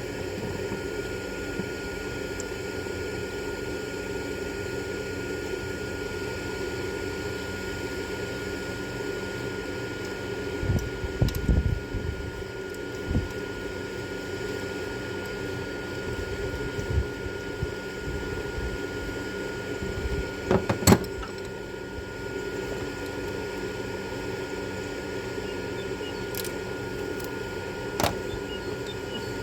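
Steady hum of a shop fan or similar machine, with scattered knocks and clicks of hand tools as a tap is worked out of a spark-plug hole: a cluster of knocks about eleven seconds in, a sharp double knock about twenty-one seconds in and a single click near the end.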